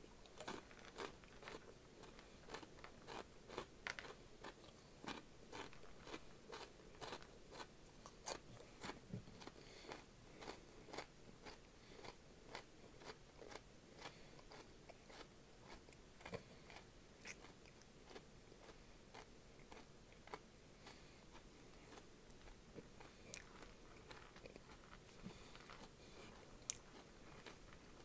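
Close-up chewing of crunchy Flamin' Hot snacks: a quick run of crisp crunches, about two to three a second, thinning out in the second half.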